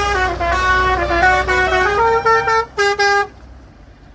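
Musical horns mounted on the back of a vintage tractor playing a tune of short notes at a few different pitches, over the tractor's low engine rumble; the horns stop about three seconds in.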